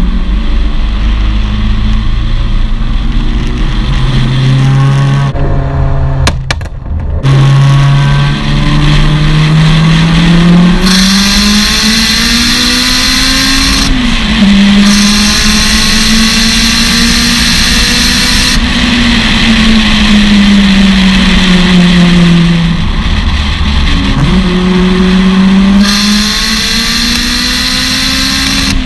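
Turbocharged 2.0-litre four-cylinder engine of a 665 bhp modified Mitsubishi Lancer Evolution VI accelerating hard, its note climbing through each gear and dropping back at the shifts. A loud hiss comes and goes over the engine.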